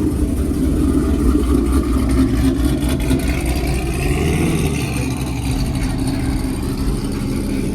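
Chevrolet Camaro's engine running, its pitch rising a little about four seconds in.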